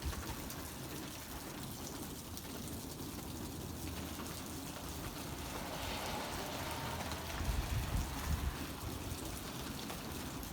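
Rain falling steadily, a continuous even hiss, with a few low rumbles partway through.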